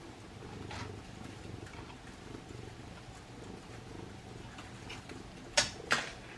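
A cat purring steadily, with two sharp clicks about half a second apart near the end.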